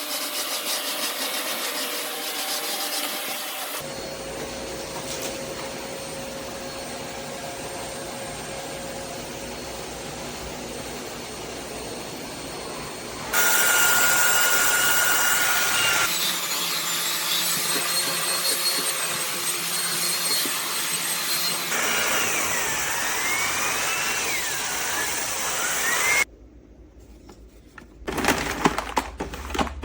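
Eureka WhirlWind NEN110A bagless canister vacuum running, a steady motor noise carrying a high whine that wavers and glides in pitch in places. Near the end the motor noise cuts off suddenly and a run of sharp clicks and rattles follows.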